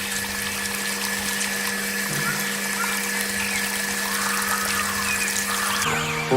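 Miniature electric water pump running with a steady hum while water trickles and splashes.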